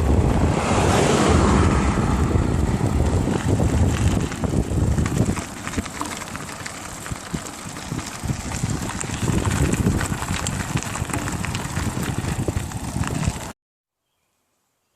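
Wind rushing over the microphone of a camera carried on a moving bicycle, with a low rumble and scattered clicks and rattles. It cuts off abruptly near the end.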